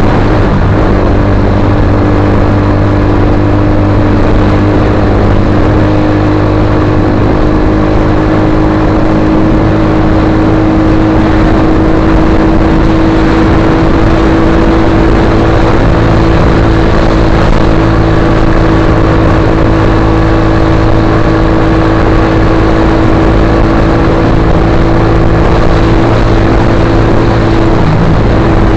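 Suzuki GSX-R150's single-cylinder engine through an aftermarket Akrapovic-style slip-on muffler, running loud and steady at held revs. Its pitch creeps slowly upward and dips slightly near the end.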